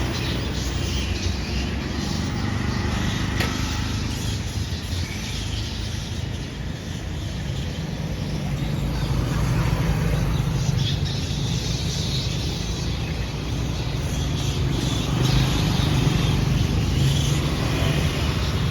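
Steady road-traffic rumble, growing somewhat louder in the second half, with many small birds chirping in a tree over it.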